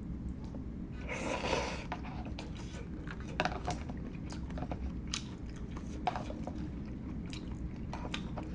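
Close-miked eating sounds: wet chewing with scattered short mouth clicks, and a brief noisy rush about a second in, over a steady low hum.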